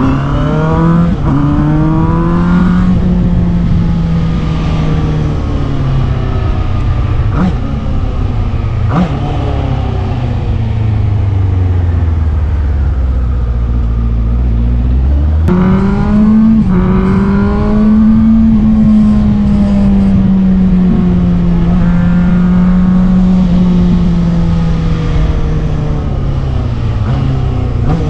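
Benda LFC 700's 680cc four-cylinder engine on its stock exhaust, under way on a ride. The engine note sinks slowly as it eases off, jumps up sharply about halfway through as the throttle opens, holds steady for a while, then falls again near the end.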